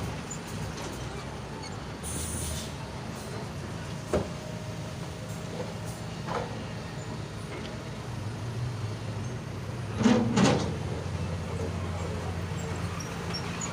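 Engine and exhaust running at a steady low idle, the low rumble growing stronger in the second half. There are short knocks about four and six seconds in, and a loud double burst about ten seconds in.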